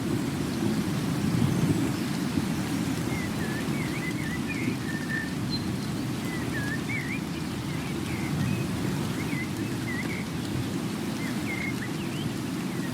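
Steady low rumbling outdoor ambience of weather or water noise, with small birds chirping in short, repeated twittering calls above it.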